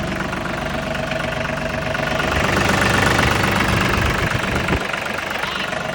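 Diesel engine of a 2013 New Holland Workmaster 40 tractor idling steadily, swelling a little louder for a second or two midway.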